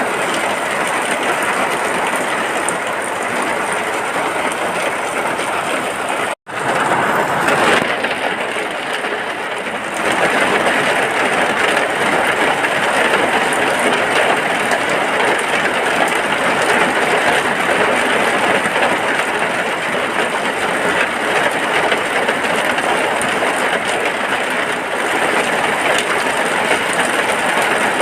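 Steady rain falling, an even hiss of drops, cut off for a split second about six seconds in.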